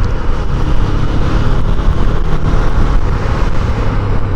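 Small motorcycle running along the road, its low engine drone under a steady rush of road and wind noise; the engine note eases in the middle and comes back strong near the end.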